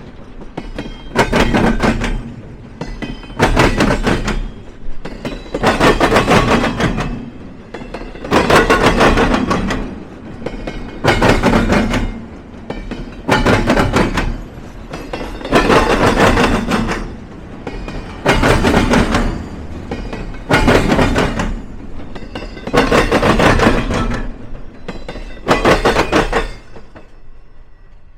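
Freight train cars rolling across a railroad diamond, the wheels clattering over the crossing's frogs in a loud burst about every two and a half seconds as each car's trucks pass, with quieter rumble between, fading near the end.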